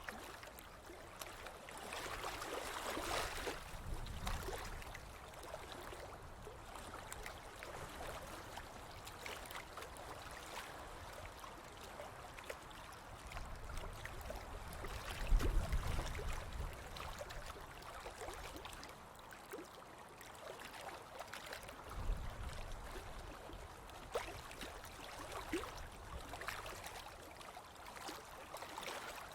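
Ocean surf washing onto a beach in an unbroken wash, swelling and falling back, with a deeper low rumble about halfway through and another shorter one a few seconds later.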